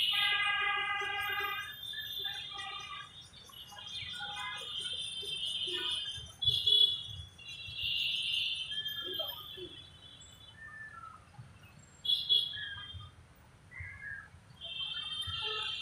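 Birds chirping and calling, many short high-pitched calls repeating on and off over a low rumble.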